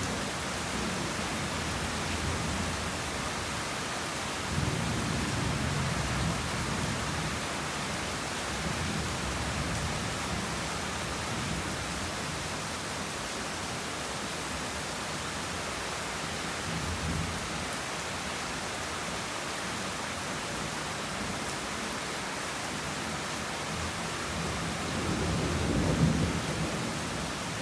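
Heavy rain falling in a steady hiss, with thunder rumbling low several times; the loudest roll swells near the end.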